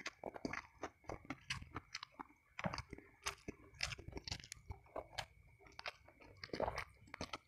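Close-miked chewing of a mouthful of fried snakehead fish and rice, with rapid mouth clicks and smacks several times a second.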